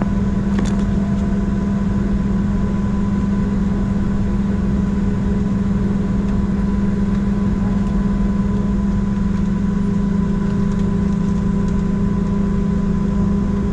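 Steady, unchanging drone of a Boeing 737-700 on the ground, heard from inside the aircraft: a strong low hum with a few faint steady tones above it.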